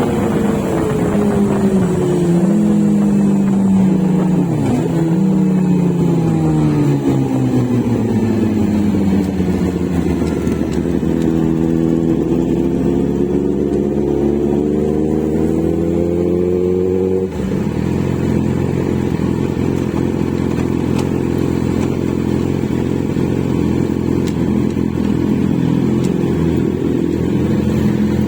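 Inline-four motorcycle engine and exhaust on the road. The engine note falls for the first several seconds, climbs steadily, drops abruptly about seventeen seconds in, then holds steady.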